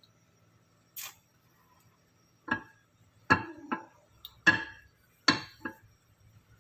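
Dishware clinking as a hot dish is handled: a brief scrape about a second in, then six sharp knocks that ring briefly.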